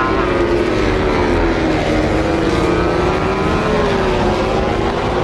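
Racing motorcycle engine running at high revs, its pitch sinking slowly and then rising again near the end.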